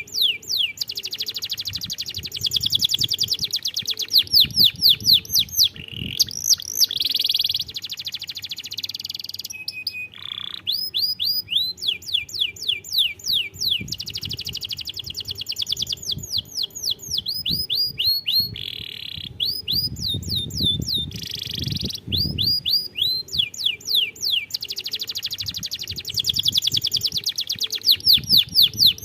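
Domestic canary singing a long, fast song of rapid trills, each made of quick downward-sweeping notes, in phrases separated by brief pauses.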